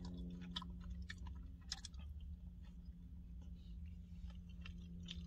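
Close-up chewing: wet mouth sounds and small clicks as a man eats a bite of steak and rice, over a faint steady low hum.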